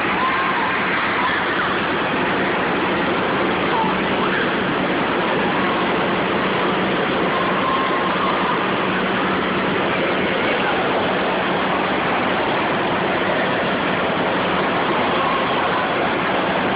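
Steady roar of an indoor water park wave pool: rushing, splashing water and a crowd's distant, echoing voices over a constant low hum.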